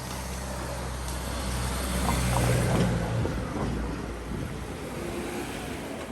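A road vehicle drives past, its engine hum and road noise growing louder to a peak about two and a half seconds in, then fading.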